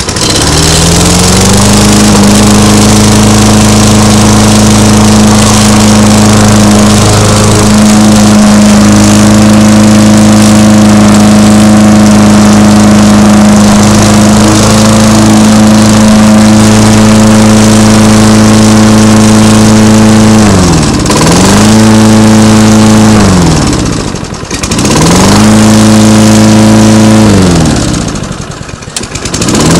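A Toro lawn mower's Tecumseh 6.5 hp single-cylinder engine starts and quickly rises to a steady high speed. Near the end its speed drops and comes back up three times. It is running well, just repaired after water got into the fuel.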